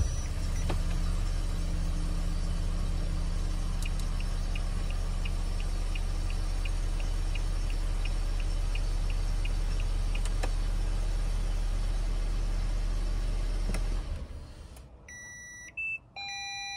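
Toyota Esquire's engine idling steadily, heard from inside the cabin, with a light regular clicking of about three a second for several seconds in the middle. The engine stops near the end, and electronic beeps follow.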